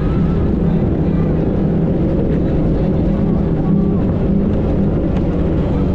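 Motorboat's outboard engine running steadily under way, with wind and water noise.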